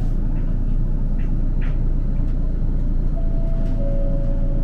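Streetcar pulling away from a stop, heard from inside the car: a steady low running rumble with a few light clicks, and about three seconds in a thin steady tone that steps down in pitch near the end.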